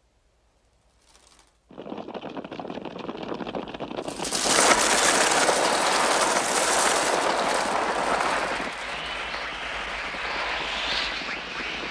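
Film sound effects of a mass of birds: a dense, rapid clatter of flapping wings with bird cries. It breaks in suddenly after a near-silent second or two and grows louder about two seconds later.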